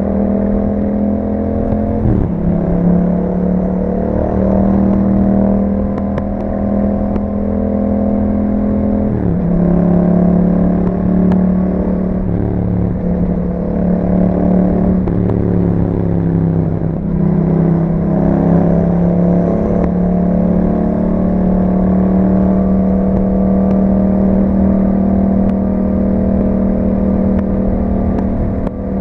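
2021 Yamaha MT-07's parallel-twin engine running under way through an Akrapovic aftermarket exhaust with a dB killer fitted. The engine note shifts pitch abruptly about two, nine and seventeen seconds in.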